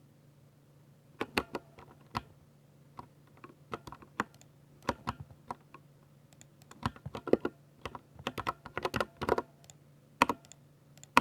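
Typing on a 60% mechanical keyboard with Ducky silver switches: sharp key clicks in irregular bursts and runs, starting about a second in.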